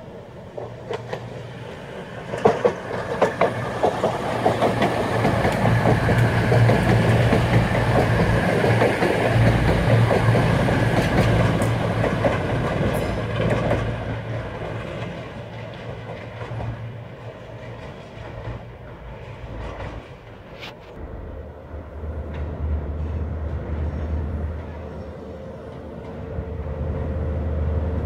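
Class 220 Voyager diesel multiple unit passing, its underfloor diesel engines running and its wheels clicking over the rail joints; it is loudest a few seconds in and fades as it moves away. From about two-thirds of the way through, a low, steady diesel drone builds as a High Speed Train with a Class 43 power car approaches.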